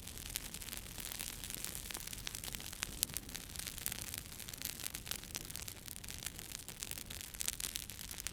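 Wood fire crackling: frequent sharp pops and snaps over a steady soft hiss, the sharpest pop about three seconds in.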